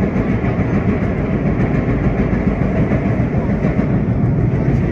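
Vintage R1-9 subway cars running through the tunnel, heard from inside the car: a loud, steady rumble of steel wheels on the rails.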